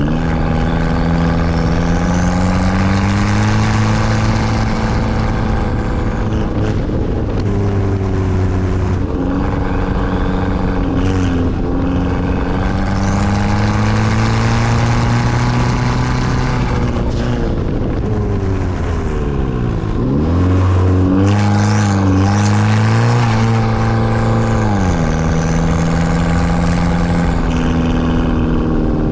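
Big-turbo 2012 Kia Optima SX's 2.0-litre turbocharged four-cylinder being driven hard, its note climbing and falling again and again through the gears. About two-thirds of the way through the revs drop sharply and jump back up. A high whistle rises and falls above the engine.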